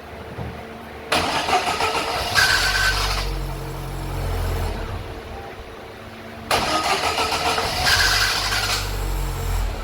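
GM Celta being started twice: each time the starter motor cranks with a sudden noisy onset and the engine then runs low for a couple of seconds. The noise on starting is, by the mechanic's judgment, apparently from the starter motor.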